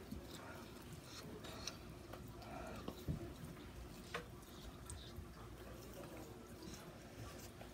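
Faint eating sounds of someone chewing saucy fried chicken, with soft wet clicks and lip smacks, the sharpest about three and four seconds in, over a faint steady hum.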